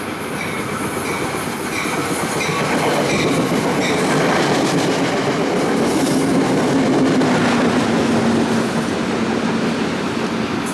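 Passenger train running past on the rails: a steady rumble of wheels on track that builds to its loudest about two-thirds of the way in, then eases slightly. A low hum drops a little in pitch in the second half.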